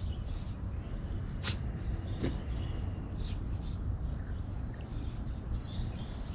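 Insects chirring steadily on one high pitch over a low outdoor rumble, with a couple of brief clicks about one and a half and two seconds in.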